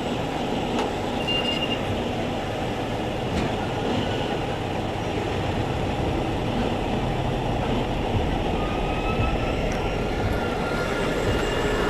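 Steady rumble of heavy machinery. From about nine seconds in, a high metallic squeal joins it and slowly rises in pitch.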